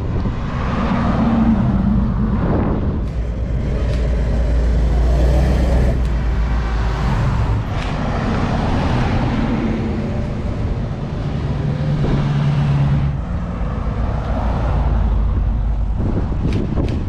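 Classic American cars driving past one after another in a slow convoy, their engines running, with the sound swelling and changing every few seconds as each car goes by.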